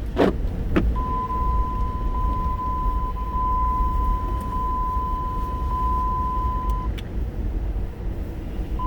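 Low rumble of a car with nor'easter wind buffeting it, under a steady high electronic tone that stops about seven seconds in and starts again near the end. Two sharp clicks come in the first second.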